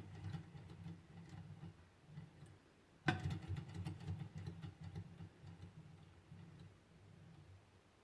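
Hand-made Stirling engine running with a fast mechanical ticking and rattle, with a sharp knock about three seconds in, after which the ticking is louder and then slowly fades.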